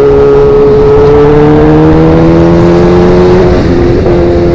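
Sportbike engine through a Danmoto XG-1 aftermarket exhaust under way, its note slowly rising in pitch, with a brief break in the engine note about three and a half seconds in before it settles steady again.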